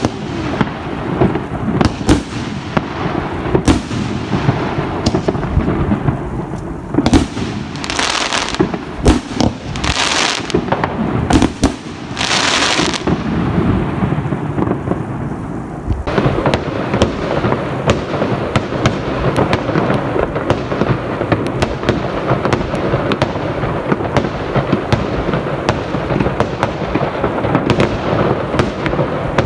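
Many fireworks and firecrackers going off nonstop, with a steady rumble of distant bangs under sharper close reports. Several hissing bursts come between about 7 and 13 seconds in, and from about 16 seconds on the crackling turns dense and rapid.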